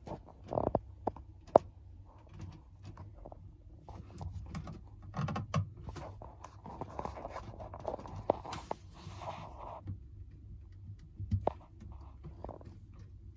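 Hands handling parts and tools: scattered clicks, light knocks and rustling, with one sharp click about one and a half seconds in.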